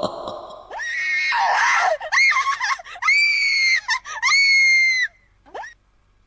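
Horror sound effect of high-pitched screaming: a rough, ragged first scream, then a run of piercing shrieks, the last two held about a second each. A short rising squeal follows near the end.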